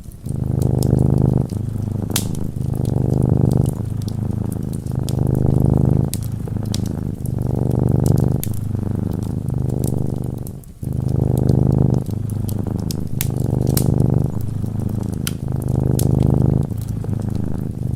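A domestic cat purring close to the microphone, in steady breath-by-breath rounds of about a second and a half. Light fireplace crackles tick over it.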